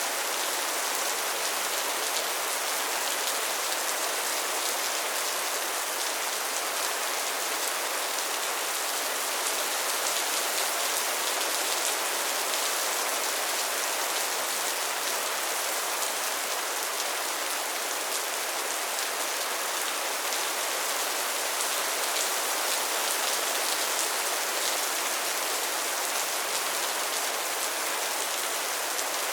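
Steady rain falling on a surface: a constant hiss of many close-spaced drops, even in level throughout.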